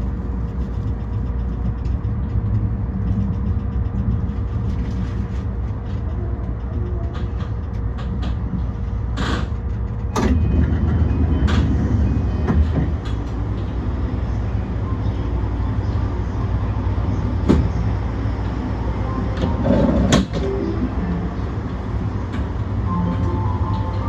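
JR E235 series electric train running at speed: a steady low rumble of wheels and running gear, with a few sharp clacks as the wheels pass rail joints or points.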